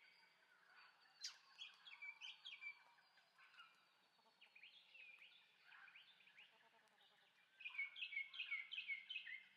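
Faint birdsong: short phrases of quick, downward-sliding chirps, about four a second, with the loudest phrase near the end.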